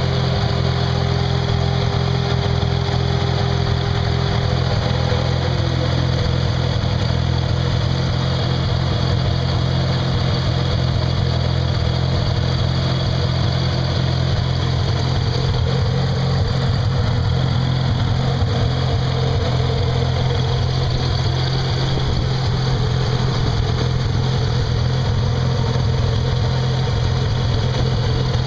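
1987 Mazda RX-7 Turbo II's 13B turbocharged twin-rotor rotary engine idling steadily, heard close up over the open engine bay.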